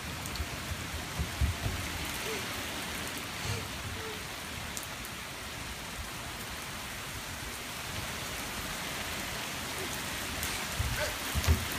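Steady rain falling on a wet balcony and the street below: an even hiss.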